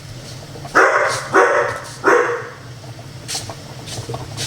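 A dog barks three times in quick succession, starting about a second in.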